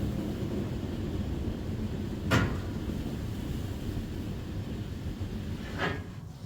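Two sharp clunks, the first louder, about three and a half seconds apart, over a steady low rumble.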